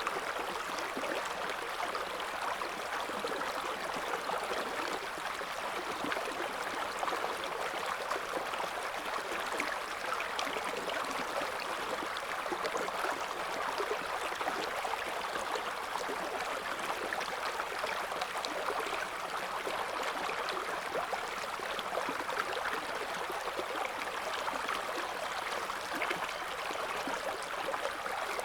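River water flowing over stones, a steady babbling rush with fine splashing and gurgling.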